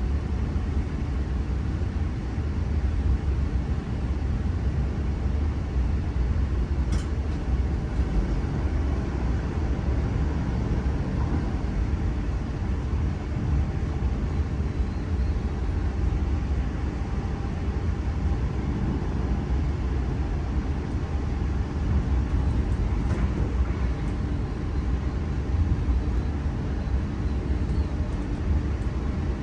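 Steady low rumble of a train running, with a faint steady tone above it and a single brief click about seven seconds in.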